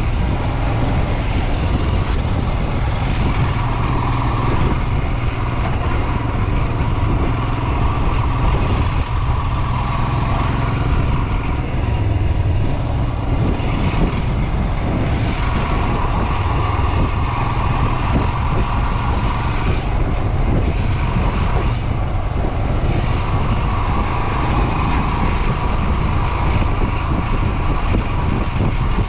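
Royal Enfield Himalayan's 411 cc air-cooled single-cylinder engine running steadily while the motorcycle is ridden, its note shifting every few seconds with the throttle.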